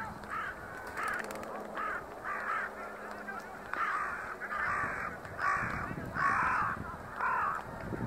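A bird giving a run of about ten short, harsh calls, louder in the second half.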